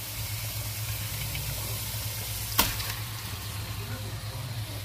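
Curry paste frying and sizzling in a pot with a metal spoon in it, over a steady low hum, with one sharp knock about halfway through.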